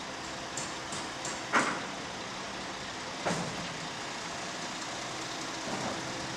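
Silo truck's engine running steadily while an empty mortar silo is lowered onto it. There are light metal knocks, a sharp clank about one and a half seconds in and another about three seconds in.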